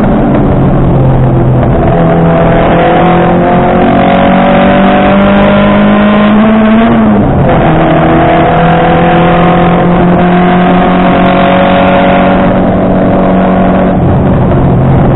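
Rally car engine heard from inside the cockpit, running hard at high revs, its pitch climbing steadily as the car accelerates. About seven seconds in the pitch falls suddenly at an upshift, then climbs again.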